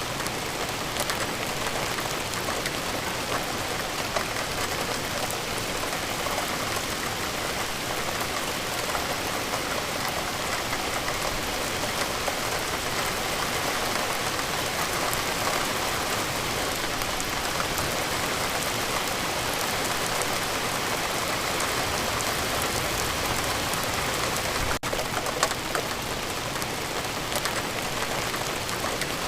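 Steady rain falling, a dense even patter of many drops striking a surface. There is a momentary break in the sound near the end.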